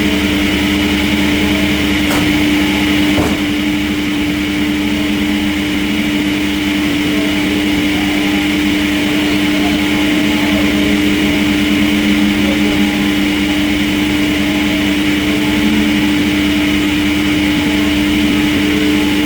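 Machinery running with a steady, even hum, a couple of faint clicks about two and three seconds in.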